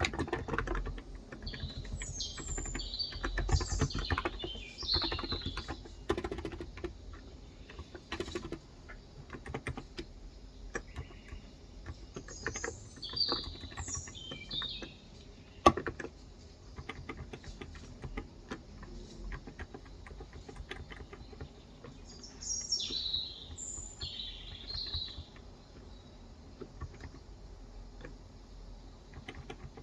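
Typing on a Cox Endeavour electrocapacitive (Topre-style) 35 g tenkeyless keyboard: keystrokes in irregular runs, busiest in the first several seconds and sparser later, with one sharper, louder click near the middle. Birds chirp in short bursts three times: near the start, around the middle and about three-quarters of the way through.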